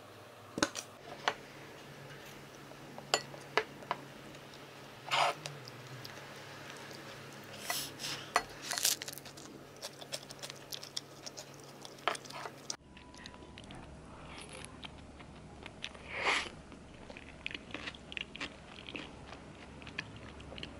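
Quiet, close-up eating sounds: biting into and chewing a chewy pretzel-bagel sandwich, with scattered short clicks and soft taps. Near the start a few sharp clicks come as sriracha is squeezed from its bottle.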